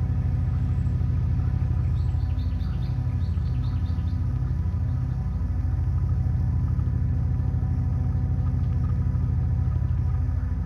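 King Drone analog synth, its six triangle-wave oscillators holding a low, pulsing drone through its low-pass filter, with slow phaser sweeps. A short run of high chirps comes about two to four seconds in.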